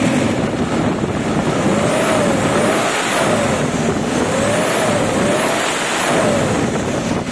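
Toyota Tamaraw FX 2C turbo diesel engine revved up and let down twice, its pitch rising and falling each time, with a high turbo whistle rising and falling along with it.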